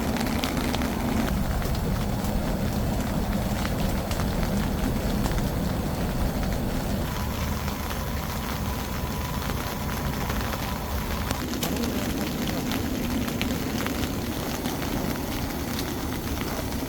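Rain falling on a camping shelter: a steady hiss with many scattered drop ticks and a low steady hum underneath.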